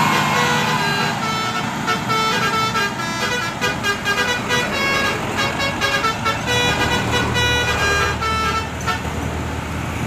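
Basuri telolet multi-tone bus horn playing a quick tune of short tooting notes, over steady road traffic and engine noise.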